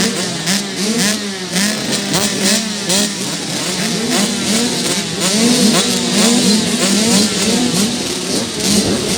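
Several dirt bike engines revving together, their pitch repeatedly climbing and dropping back as the riders accelerate and change gear.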